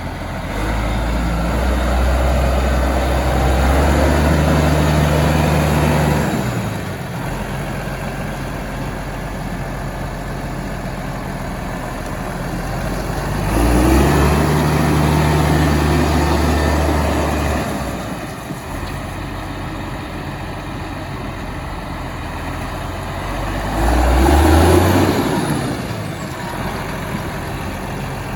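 Diesel engine of a 2008 Landini Landpower 135 tractor idling and revved up three times, each rev held for a few seconds before dropping back to idle.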